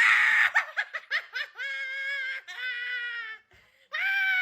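High-pitched laughter: a harsh cackling burst, then rapid giggles, two long squealing held notes, and another run of giggles near the end.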